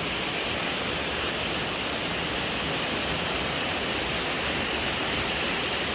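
Diamante waterfall roaring: a steady, even rush of falling water.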